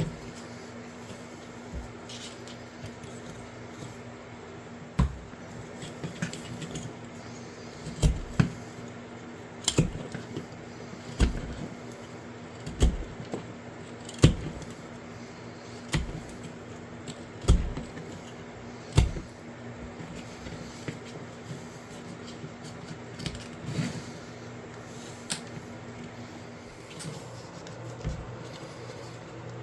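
A series of sharp knocks or taps from hand work at a workbench, irregular, coming about every second and a half through the middle and more sparsely near the start and end, over a steady low hum.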